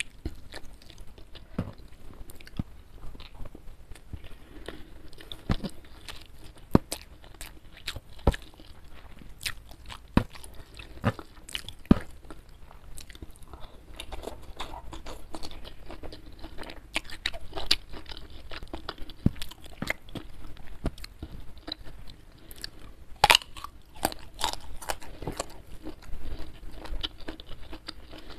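Close-miked eating sounds: chewing with wet mouth noises and many sharp, crisp crunches as mouthfuls of rice, side dishes and raw vegetables such as a small young green eggplant are bitten. A cluster of louder crunches comes about three quarters of the way through.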